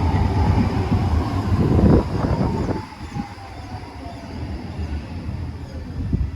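Bombardier NGT6DE tram running, a loud low rumble with the whine of its drive gliding down in pitch. After about three seconds it turns much quieter.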